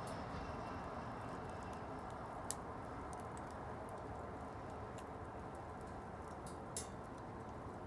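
Wood bonfire burning with a steady low rush and scattered sharp crackles. Two louder pops come about two and a half seconds in and near the end.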